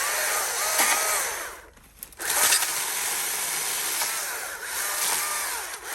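Battery-powered electric saw cutting through brush in two runs with a short break about two seconds in. The motor's pitch repeatedly sags and recovers as the blade bites into the wood.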